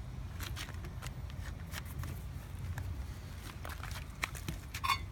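Scattered light clicks and taps of things being handled, over a low steady hum.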